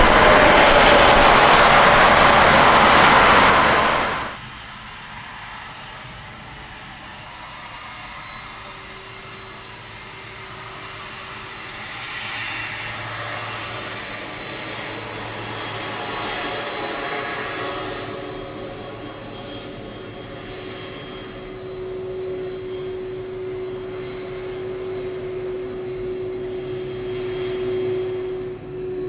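Jet airliner engines running loud for about four seconds, then cutting off abruptly. After that comes a much quieter, steady jet engine whine over a low rumble.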